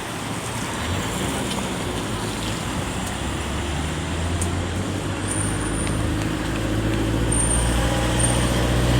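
City street traffic noise, with the low drone of a heavy vehicle's engine coming in about halfway through and growing louder toward the end.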